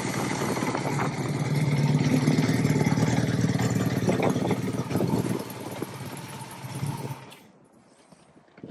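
1984 Kawasaki GPz750's inline-four engine idling with a fast, even beat, then fading away and dropping out about seven seconds in.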